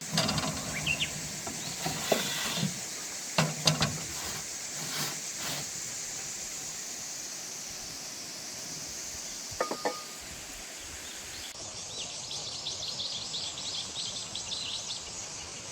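Crockery and cutlery clinking in a series of sharp clicks, with a short ringing clink near the middle, over a steady hiss. Near the end, small birds chirp quickly and repeatedly.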